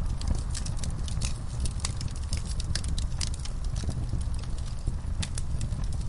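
Wood fire crackling in a fireplace: frequent sharp pops and snaps scattered over a steady low rumble of the flames.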